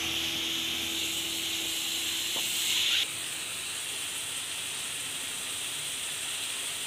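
Grated bottle gourd sizzling in hot ghee in a steel kadhai: a steady hiss that drops a little in level about three seconds in.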